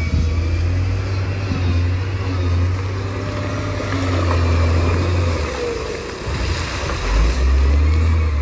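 Bulldozer's diesel engine running under load with a deep, steady hum. The low note drops away about five and a half seconds in and comes back strongly near the end.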